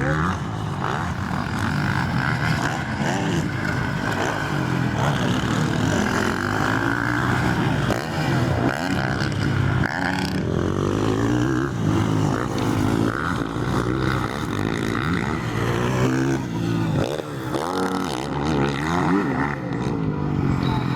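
Several motocross bikes' engines revving and racing, their notes rising and falling in pitch and overlapping.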